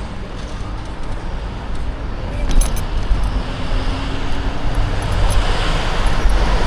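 Street traffic heard from a moving e-bike, over a deep rumble of wind on the microphone, growing steadily louder. A few light rattles sound about two and a half seconds in.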